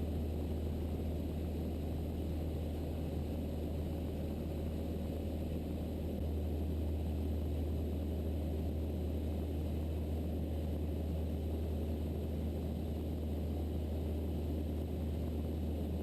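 Steady drone of a Mooney M20E's four-cylinder engine and propeller in cruise, heard from inside the cockpit as a constant low hum and rumble with no change in power.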